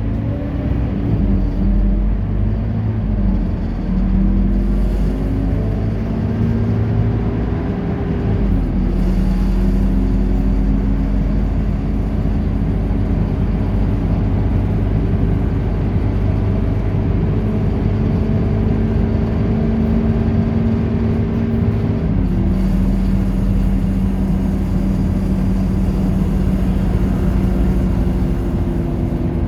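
Scania K230UB bus's engine pulling under load, its note climbing and then dropping at each automatic gear change: three upshifts, the last about two-thirds of the way through, after which it runs at a steady pitch.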